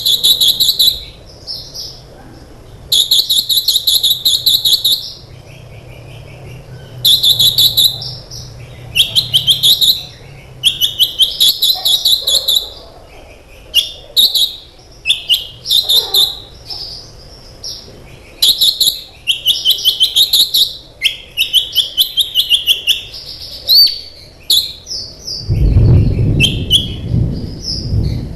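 Sunbird (kolibri ninja) singing in fast bursts: rapid trains of sharp, high chirping notes, each run lasting a second or two, with short pauses between them. Near the end a low rumble sounds under the song.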